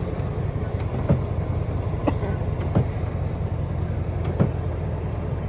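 Inside a Chrysler Imperial driving through snow: a steady low engine and road rumble, with a few short knocks about a second apart.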